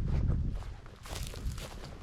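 Footsteps of a person walking, with wind buffeting the microphone that dies away about half a second in.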